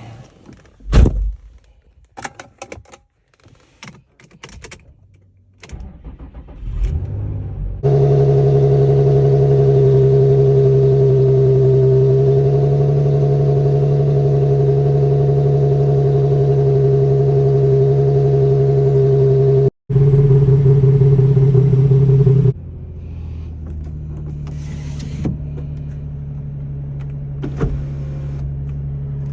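Infiniti G35's VQ35DE V6 starting after a few seconds of clicks and knocks. It catches about eight seconds in and idles loudly and steadily, then carries on at a lower level for the last several seconds.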